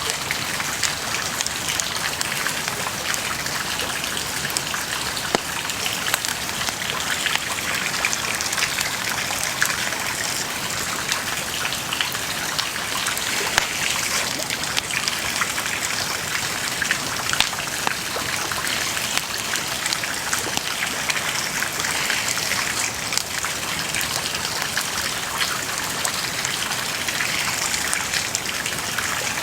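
Wood bonfire crackling and hissing steadily, with many small pops and snaps.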